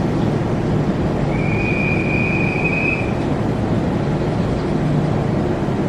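Kintetsu electric train standing at a station platform with its on-board equipment humming steadily. A steady high tone sounds for about two seconds, starting about a second in.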